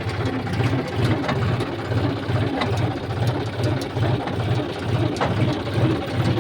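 Heavy diesel engine running, with a low throb that pulses about three times a second and a few sharp clicks over it.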